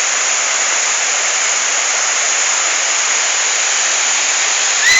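Waterfall: the steady, loud noise of falling water.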